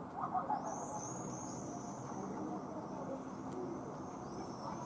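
Evening town ambience: a steady hum of distant traffic and city noise, with thin, high-pitched bird chirps sliding downward, repeating from about half a second in.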